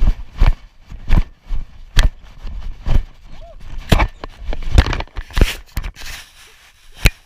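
A horse's hooves cantering and jumping through a grid, with heavy thuds about twice a second. Around five seconds in the rhythm breaks up into irregular thuds and a rustling scuffle.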